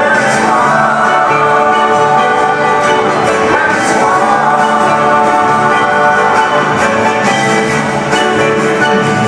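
A live band playing country-rock music with plucked guitars, steady and loud, with some singing.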